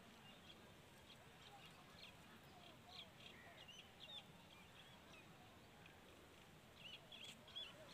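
Faint chirps and calls of small birds: many short, sharp notes scattered throughout, with a busier cluster near the end.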